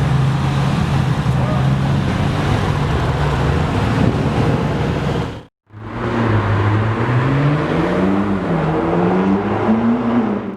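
A car engine running at steady, fairly high revs for about five seconds. After a sudden cut, a car accelerates, its revs rising, dropping once at a gear change, then climbing again.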